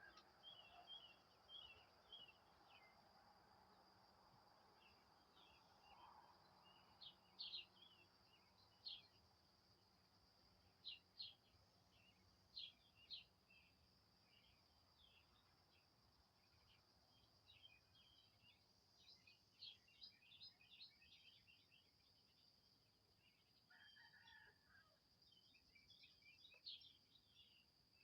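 Faint chirping of small birds: short high calls in scattered clusters, over a steady high-pitched drone.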